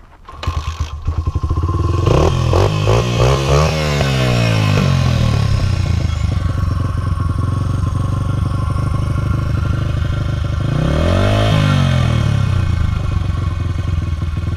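Dirt bike engine starting about half a second in. It is revved up and down several times in quick succession, settles to a steady idle, and is revved once more briefly near the end.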